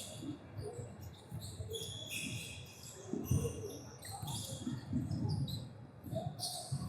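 Basketball game on a gym court: a ball bouncing, the loudest bounce about three seconds in, with many short high squeaks of sneakers on the floor.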